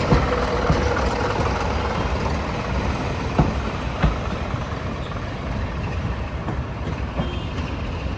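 Heritage diesel locomotive engine running with a steady low rumble, with a few sharp clicks.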